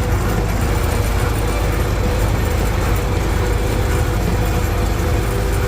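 A vehicle engine running steadily at an even speed, a constant low drone.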